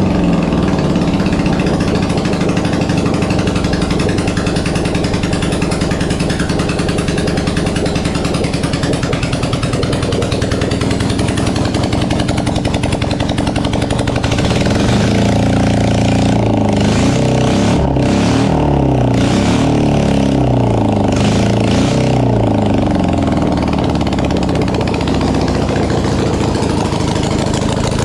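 Classic 1980s BMW air-cooled boxer twin engine running loud and raw, then revved up and down repeatedly through the second half.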